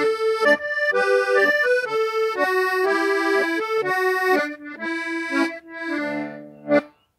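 Instrumental music: a melody of held notes played on a single reedy-sounding instrument. It ends on a held chord and one short final note, then stops.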